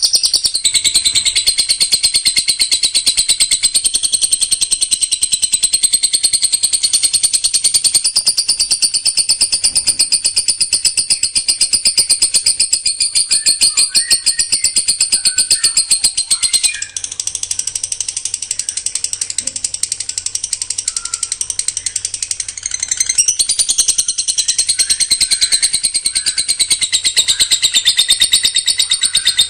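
A songbird delivering a dense, rapid-fire 'tembakan' song: a very fast, high, ratchet-like stream of notes that dips briefly a little past halfway, then carries on.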